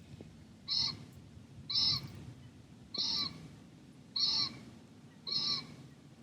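A bird calling five times in an even series, about a second apart, each call short, over a faint low background hum.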